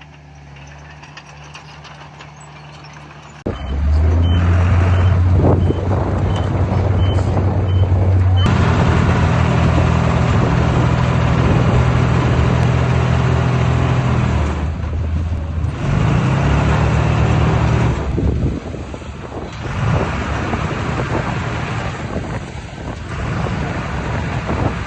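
Heavy diesel earthmoving machinery running loud and steady under load. A reversing alarm beeps repeatedly for about five seconds after the engine sound jumps up, a few seconds in.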